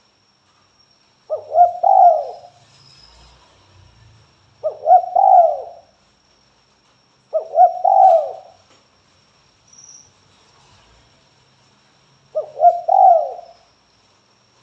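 Spotted dove (tekukur) cooing: four phrases a few seconds apart, each a couple of quick short notes running into a longer coo.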